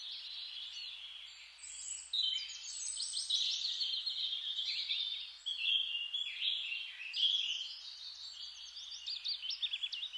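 Several songbirds singing at once, a dense chorus of overlapping quick chirps and trills over a faint steady hiss, with a burst of rapidly repeated notes near the end.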